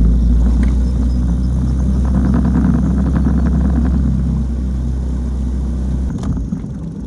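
Boat's outboard motor running as the boat moves, with a heavy low rumble that drops away about six seconds in.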